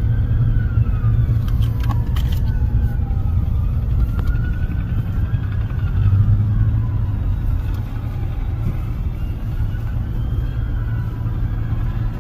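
Steady low rumble of road traffic, with emergency sirens wailing in slow rising and falling glides, more than one sounding at once. A few sharp clicks come about two seconds in.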